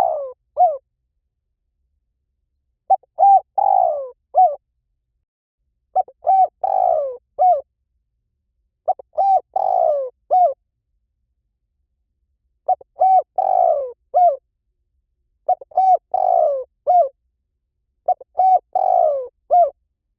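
Spotted dove cooing. Each phrase is a couple of short coos, a longer falling coo and a short last note, repeated about every three seconds with silence between.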